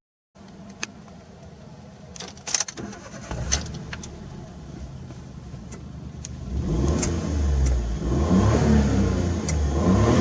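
Suzuki Kei Works' K6A three-cylinder turbo engine with an aftermarket exhaust, running low with a few sharp clicks at first, then getting louder about six seconds in as the revs rise and waver.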